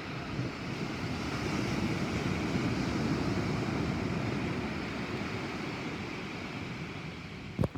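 Thunderstorm noise: a steady rush of wind and rain with a low rumble that swells and fades over a few seconds. A couple of sharp knocks near the end.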